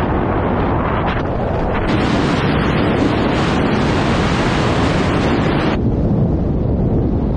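Loud, steady wind buffeting a microphone. The hiss turns brighter about two seconds in and drops back suddenly near the end.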